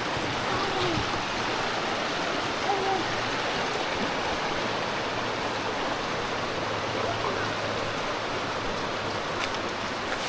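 Creek water flowing steadily, an even rushing with no breaks.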